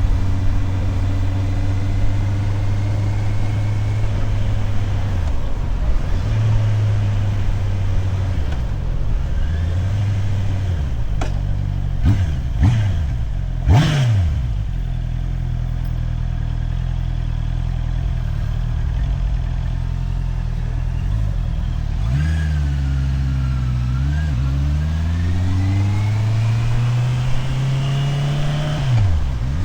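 Motorcycle engine heard from the rider's helmet, its note rising and falling with throttle and gear changes. About halfway through, several quick drops and rises in pitch; in the last third the engine slows down, then pulls away with a long climb in pitch.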